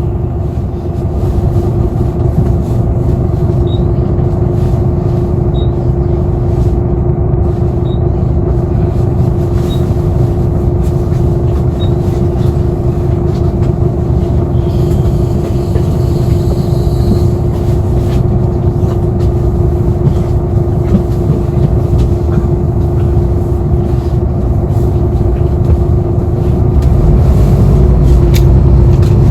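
Interior of a city bus on the move: steady engine and road rumble with a steady hum. There are faint light ticks every couple of seconds in the first half, and the rumble grows louder near the end as the bus picks up.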